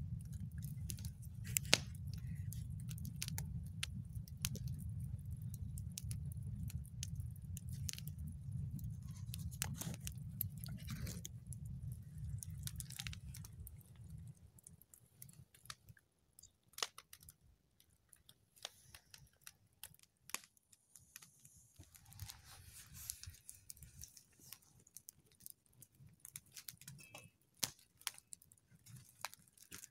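Wood campfire crackling, with irregular sharp pops and snaps. A low rumble runs underneath for the first half and stops about halfway through.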